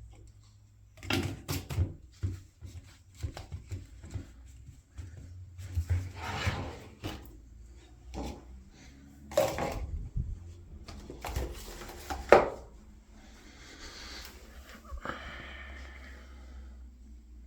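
Knocks, clicks and clatter of hands working at a washing machine, with a soft hiss starting about three-quarters of the way through.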